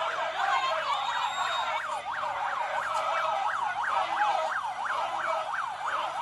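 Vehicle siren in a fast yelp pattern, its pitch sweeping up and down about three times a second.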